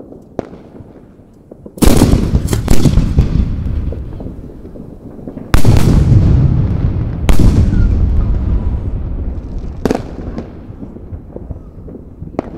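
Aerial salute shells bursting: three heavy booms, each trailing off in a long rolling echo, with several sharper cracks between them.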